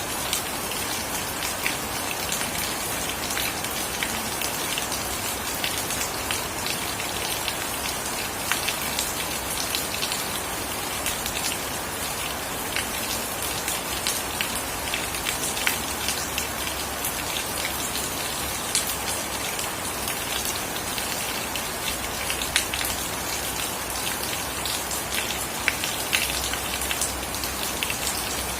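Steady rain falling, with many sharp individual drops ticking on nearby surfaces.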